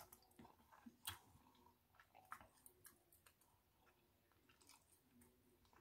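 Faint chewing of a mouthful of sausage, with scattered soft clicks and smacks, the sharpest about a second in.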